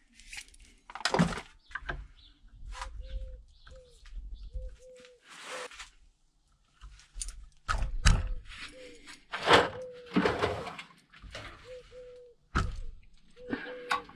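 Metal tools knocking and scraping against a motorcycle brake caliper as it is stripped down, with a dog whining in short, even whines repeated throughout.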